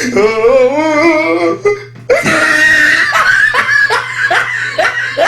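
A person laughing hard: a long wavering laugh, then after a short break a run of short ha-ha bursts, over a steady low hum.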